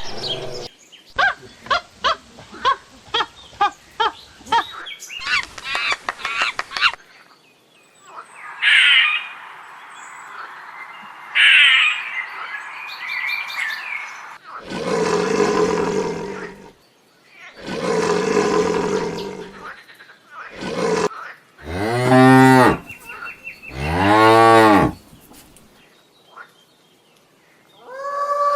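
Cattle mooing: several long drawn-out moos, the last two bending up and down in pitch. A run of quick clicks and a couple of short rising calls come first.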